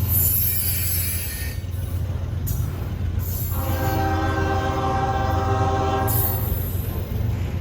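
Train rumbling steadily, with one locomotive horn blast of about two and a half seconds from about three and a half seconds in, a chord of several tones held steady. High hissing noise comes and goes over the rumble.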